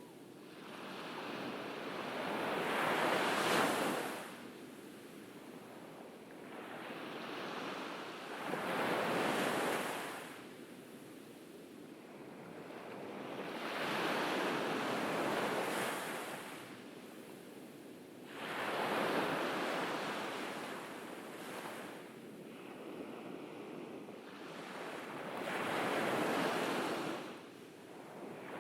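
Ocean waves breaking on a beach: five swells of surf rising and falling away, one every five or six seconds.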